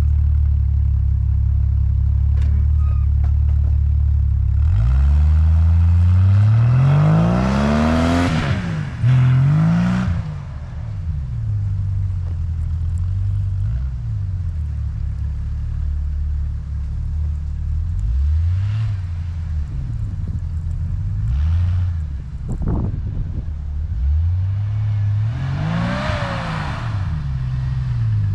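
Jeep engine idling steadily, then revving up hard about five seconds in and dropping back. Several shorter revs follow, with another clear rise and fall near the end.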